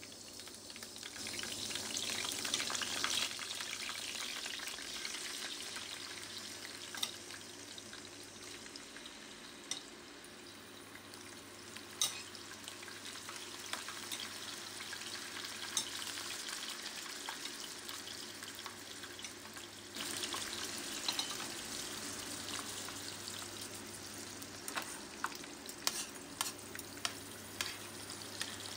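Cubed raw chicken sizzling in hot oil in a frying pan, the sizzle swelling a second or two in as the pieces go into the pan. Metal spatula and tongs click against the pan now and then, several times near the end.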